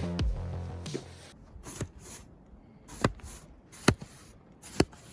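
Background music fading out in the first second, then a snow shovel's blade striking and cutting into the snow four times, about once a second.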